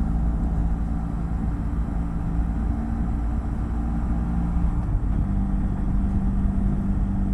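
BMW F800GS parallel-twin motorcycle engine running steadily while riding, a low drone over road and wind rumble. The engine note shifts slightly about five seconds in.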